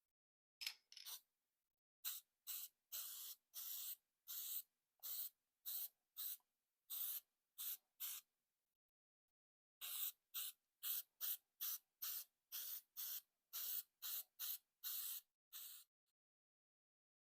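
Aerosol can of copper spray-on gasket sealant being sprayed onto head gaskets in many short hissing bursts, a rapid series of two to three per second, with a pause of about a second and a half midway.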